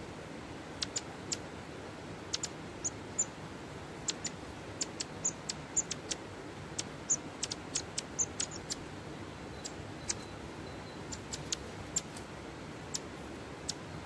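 Long-tailed tit giving many short, high-pitched ticking calls at irregular intervals, over a steady hiss.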